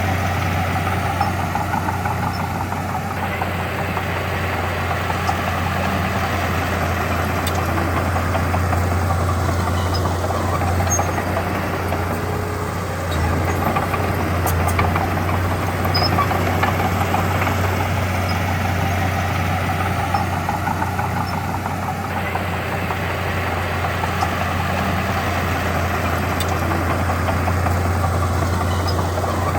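Heavy diesel engine of earthmoving machinery running steadily with a deep hum, its sound rising and easing in a repeating pattern every several seconds.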